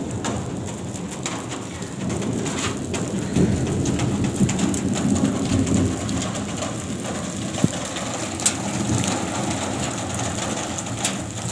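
Rain falling steadily on a concrete rooftop, with a few sharper taps of drops among the hiss.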